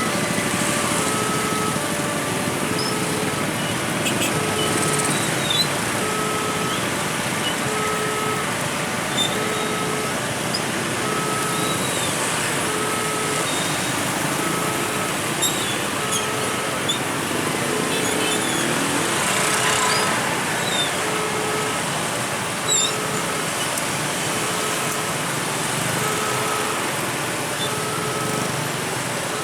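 Railway level-crossing warning alarm sounding a repeating electronic two-pitch beep about once a second, over the steady engine noise of motorcycles and cars crowded at the crossing.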